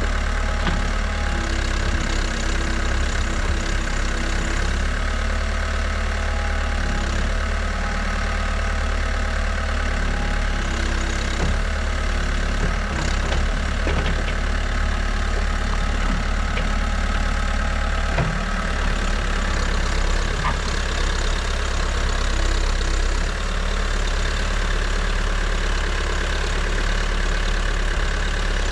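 A New Holland backhoe loader's diesel engine running steadily at idle, with a few brief clicks over it.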